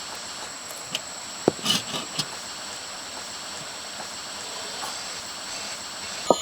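A few short, sharp knocks or taps, the loudest about a second and a half in, over a steady hiss with a faint high whine.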